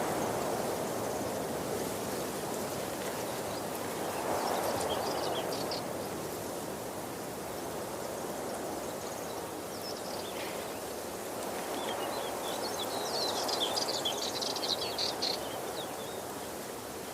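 Waterfall rushing in a steady stream of water noise that swells gently now and then, with small birds chirping in short high bursts a few times.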